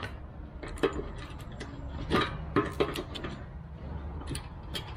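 Irregular metal clicks and knocks as a pushed-on end cap is twisted and worked off a vintage air compressor.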